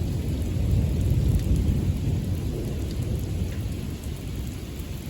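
Thunder rumbling over steady rain. The rumble swells about a second in and then slowly dies away.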